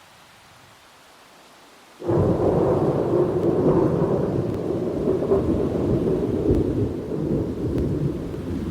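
Thunder in a rainstorm: soft rain hiss, then a sudden loud thunderclap about two seconds in that rolls on as a long, deep rumble.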